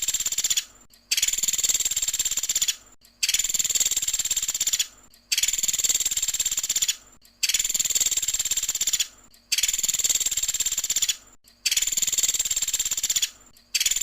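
Pelatuk sampit woodpecker giving its rapid, high-pitched rattling trill call ('tembakan'), repeated about every two seconds, each trill lasting about a second and a half.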